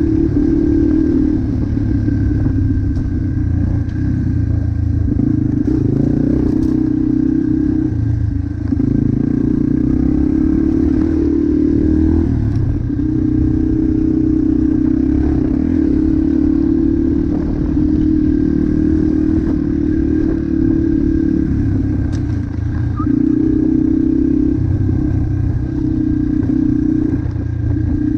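Motocross motorcycle engine running hard at fairly steady revs, with brief drops every few seconds as the throttle is eased off and opened again.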